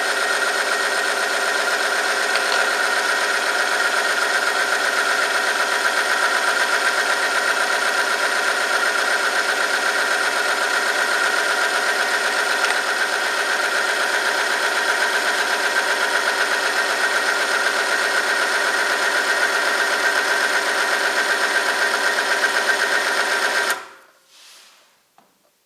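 Oil film friction test machine running under load: its electric motor spins a shaft against a steel test sample lubricated with two-stroke oil heated to 100°C. It makes a loud, steady whine with many overtones, then stops abruptly near the end.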